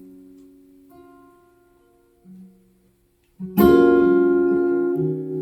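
Acoustic guitar between sung lines. A chord rings out and fades almost to nothing, with a few soft single notes, then a full strummed chord about three and a half seconds in rings on, with a new bass note near the end.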